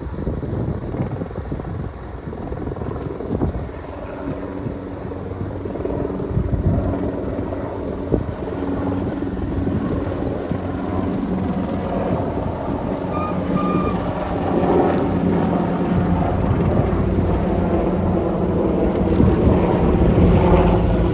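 Wind buffeting the microphone while riding a bicycle, a steady low rumble mixed with a faint hum from the moving bike, growing gradually louder.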